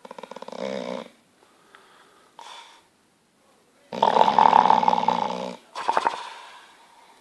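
Bulldog snoring in its sleep, a rattling snore with each breath at uneven intervals. The longest and loudest snore comes about four seconds in, with a short one just after.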